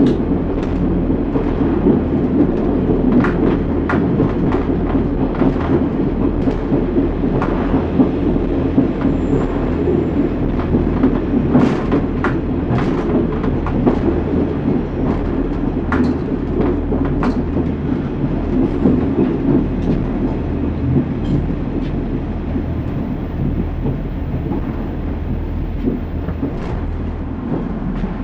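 Class 142 Pacer diesel railbus running along the line: a steady low engine drone with irregular clicks and knocks, easing off slightly near the end.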